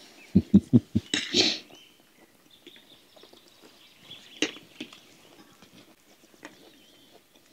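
A hungry dog giving four quick short whimpers, then a breathy huff. Faint birds chirp behind it.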